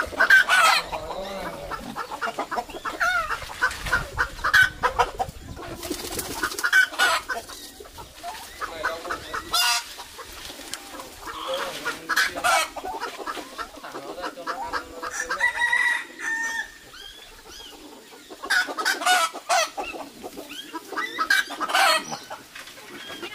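Chickens clucking and squawking in repeated short calls, with a longer drawn-out call about fifteen seconds in.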